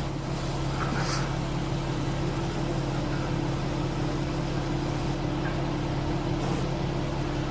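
Steady low motor hum over a constant hiss, unchanging throughout.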